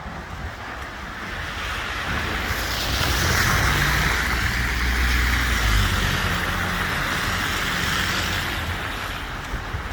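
A car driving past on a wet, snowy road, its engine rumble and tyre hiss swelling over a few seconds and then fading away.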